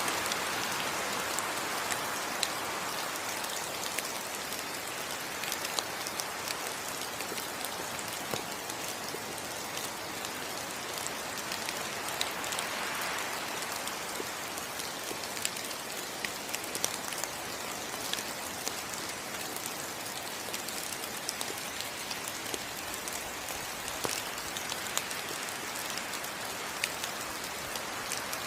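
Steady rain falling on rainforest foliage: a continuous hiss scattered with the sharp ticks of individual drops.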